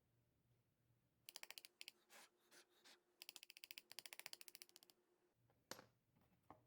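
Rapid mechanical clicking, about ten clicks a second, in two short runs like a ratchet, then two single sharp knocks near the end.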